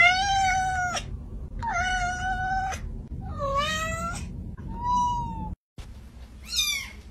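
Cat meowing repeatedly: four long, drawn-out meows, then a short falling meow near the end.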